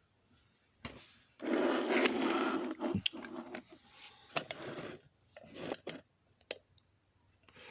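Small parts being handled by hand: about two seconds of scraping and rubbing, then scattered light clicks and taps.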